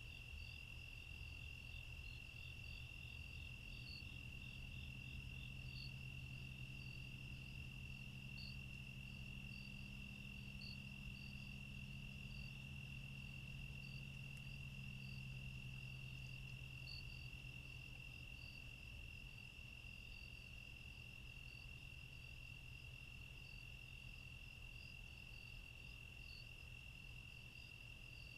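Crickets trilling in a faint, steady, high chorus, with scattered short chirps above it and a low hum underneath that fades out about two thirds of the way through.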